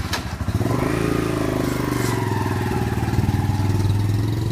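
A motor vehicle's engine running steadily with an even, low pulsing hum, its pitch held nearly level; a sharp click just at the start.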